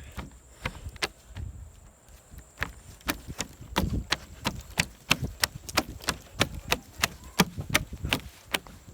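Footsteps on a hard surface, a sharp click with each step. The steps come about three a second from about three seconds in.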